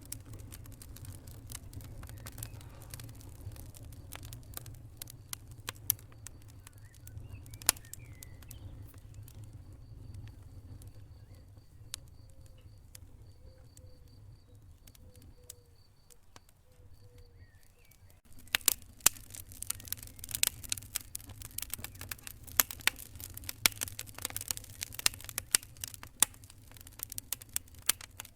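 Wood fire crackling, with sharp pops over a steady low rumble. The pops thin out and it goes quieter for several seconds in the middle, then the crackling turns dense and loud from about two-thirds of the way in.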